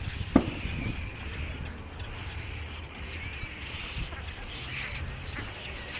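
A group of birds chirping continuously, with one louder short call about a third of a second in and a few brief calls later, over a low steady rumble.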